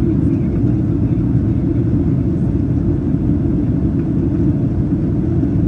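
Steady low rumble of a Boeing 737-800's engines and rushing air, heard inside the passenger cabin during the initial approach.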